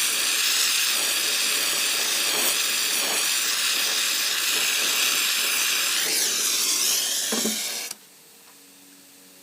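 Brazing torch flame hissing steadily on an HVAC copper line joint. The hiss wavers briefly near the end, then cuts off abruptly about eight seconds in.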